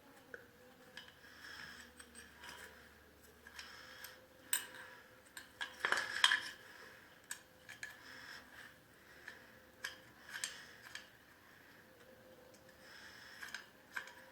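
Metal hand tools clinking and scraping on the clover mower engine's parts as a screw is worked loose, in scattered clicks with a louder cluster of scraping and knocking about six seconds in.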